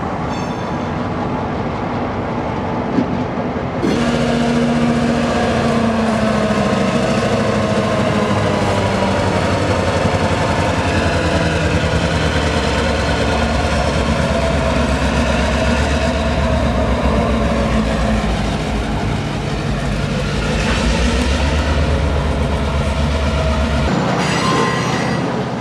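EMD GP38-2 locomotive's roots-blown 645 diesel engine running with a steady low rumble. It gets louder and fuller about four seconds in.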